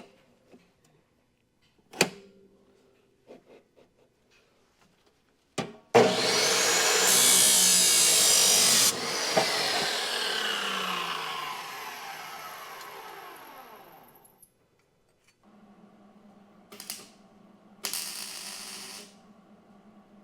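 Electric power tool starts abruptly and runs loud for about three seconds, then its motor winds down with a falling whine over several seconds. A few sharp clicks come before it, and a low steady hum with two short bursts of noise follows near the end.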